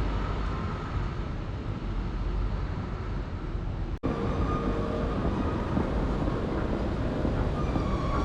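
Steady rumble and hum of a train at a railway station, with a few faint steady tones over it. The sound cuts out for an instant about four seconds in, then carries on much the same.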